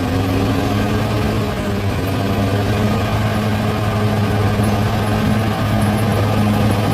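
Large bulldozer's diesel engine running steadily at a constant speed, a low, even drone.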